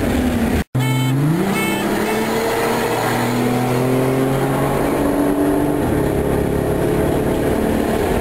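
Turbocharged car engine heard from inside the cabin, accelerating hard through the gears: after a brief cut-out near the start, its pitch climbs and then drops back at each gear change.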